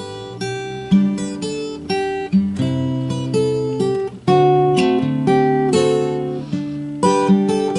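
Acoustic guitar music: plucked and strummed notes, each attack ringing and fading, in a steady rhythm.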